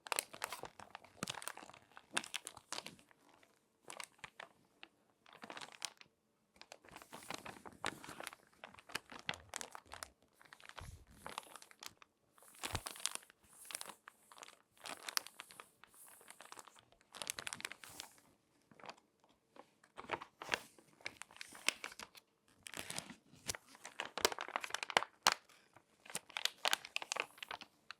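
Crinkly magazine pages being folded and handled by hand, crackling in irregular bursts with short pauses between them.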